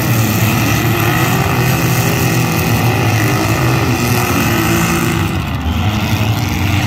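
Engines of several compact demolition derby cars running loudly together, their revs rising and falling as the cars accelerate and push around the arena.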